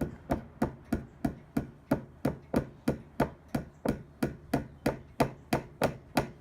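A hammer tapping a nail into wood with steady, even strokes, about three a second.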